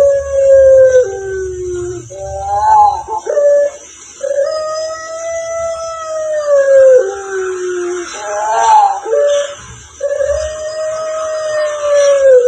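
An animal giving three long, howl-like calls, each holding a steady pitch for two to three seconds and then dropping at the end, with short warbling notes in between.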